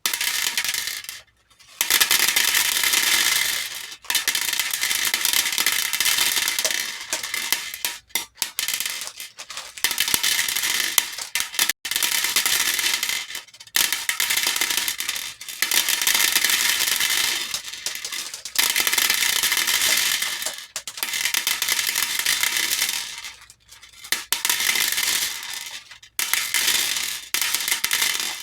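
Hair beads poured and tumbling into a bowl, a dense clatter and rattle repeated in runs of one to three seconds with short breaks between them.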